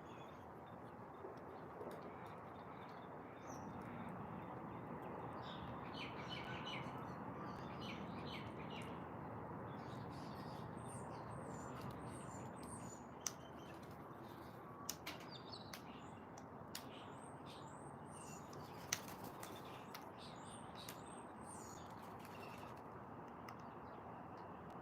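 Birds chirping: short, high chirps scattered through, over a steady background noise, with a few sharp taps in the middle.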